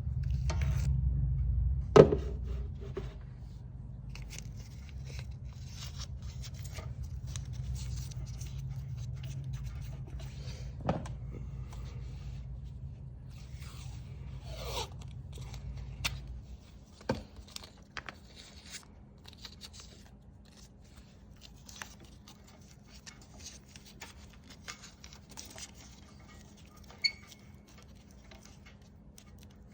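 Scattered clicks, taps and scrapes of small parts and tools being handled, with a sharp click about two seconds in. Under them a low rumble stops about sixteen seconds in.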